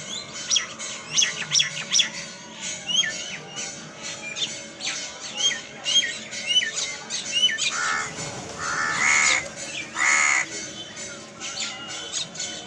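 A flock of birds calling together: many short overlapping chirps, each a quick hooked glide in pitch. Two longer, harsher squawks come about eight and ten seconds in.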